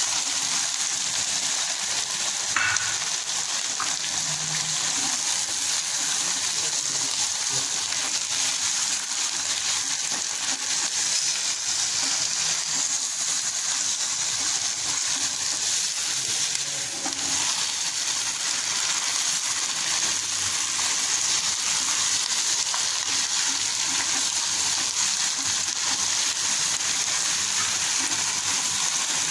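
Raw chicken pieces and sliced onions sizzling in hot oil in a large pot, stirred with a silicone spatula. The frying hiss is steady throughout.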